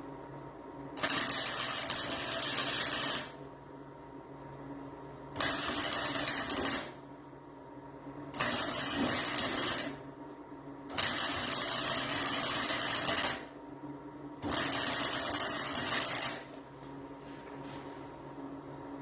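Arc welding laid down in five short bursts, each a steady crackling buzz lasting one and a half to two and a half seconds, with brief pauses between them, over a faint steady hum.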